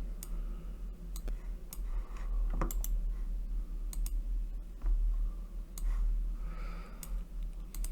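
Computer mouse clicks, about a dozen, sharp and irregularly spaced, over a steady low electrical hum.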